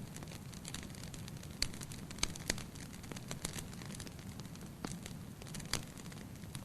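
Campfire crackling: irregular sharp pops and snaps, a few of them louder, over a steady low rush.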